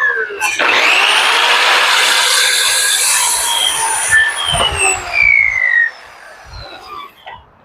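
Circular saw started and cutting through a wooden board for about three and a half seconds, its whine rising as it spins up. Then the blade winds down with a falling whine and stops about six seconds in.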